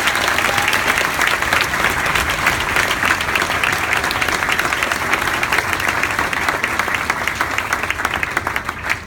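Audience applauding, a dense steady clapping that fades slightly near the end and stops just after.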